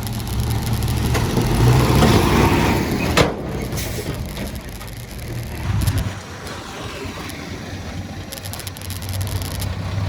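Diesel engine of heavy construction machinery running, louder for a couple of seconds near the start, with a sharp metallic clank about three seconds in; the low rumble drops away around six seconds in.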